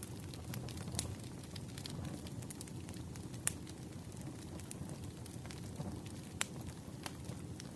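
Wood fire crackling: a steady low rumble of burning under scattered small crackles, with a few sharper pops, the loudest about three and a half and six and a half seconds in.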